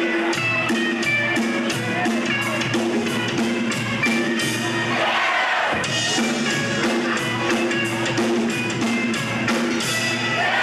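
Live band playing a song: a drum kit keeps a steady beat under sustained bass and guitar notes, with a sweeping glide in pitch about five seconds in.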